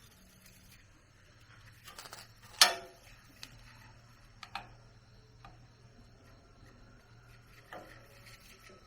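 A few scattered sharp clicks and knocks, like small objects or tools being handled and set down. The loudest knock comes about two and a half seconds in. A faint low hum runs underneath.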